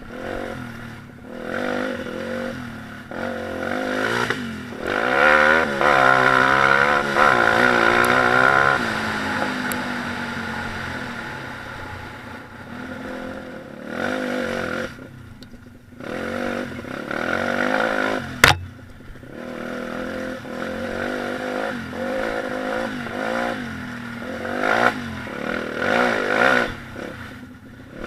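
Pit bike engine revving and easing off repeatedly, its pitch rising and falling, loudest about a quarter of the way through. A single sharp crack rings out past the middle.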